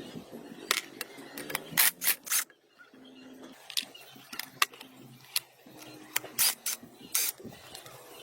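Hand tools clicking and knocking against metal engine parts in irregular single strikes, with a faint steady hum between them.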